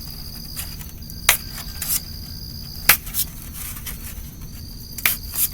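Crickets trill steadily, and five sharp crunching clicks sound as scissor points are pushed through the cells of a styrofoam egg carton to make drainage holes.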